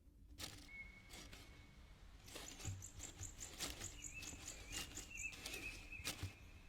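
Woodland ambience of bird calls: a thin whistle, then a fast run of high chirps at about five a second, and a wavering whistle near the end, over soft rustling and light taps.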